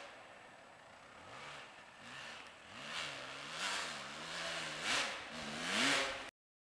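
Dirt bike engine revving up and down over and over, getting louder toward the end, then cutting off abruptly.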